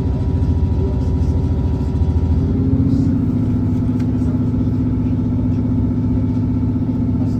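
Diesel passenger train under way, heard from inside the carriage: engine and running noise, whose note changes about two and a half seconds in to a steady hum.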